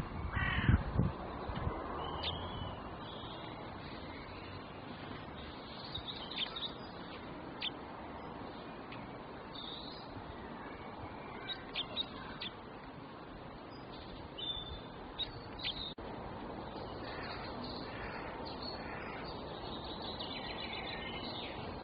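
Birds calling over a steady background hiss: scattered short, high chirps throughout, with a few loud, harsh calls in the first second.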